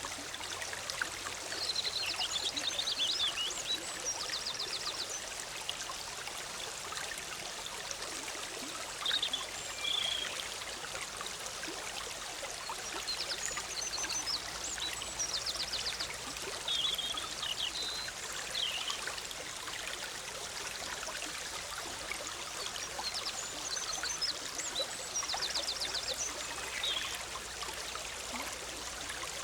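Forest stream bubbling steadily over rocks. Small songbirds sing short high phrases, some ending in a fast trill, several times over the running water.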